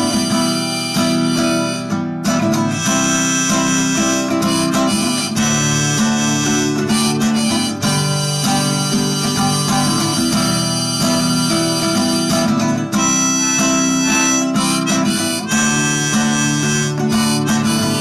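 Instrumental music: a harmonica playing a melody of held notes over guitar accompaniment.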